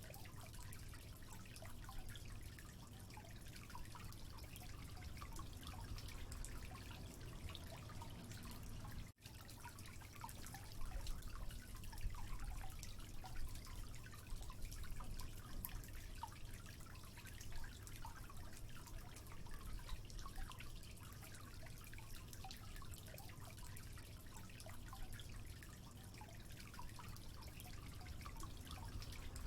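Water dripping and trickling steadily, a dense scatter of small drops over a soft running-water hiss. The sound cuts out for an instant about nine seconds in, and the drops are a little louder after that.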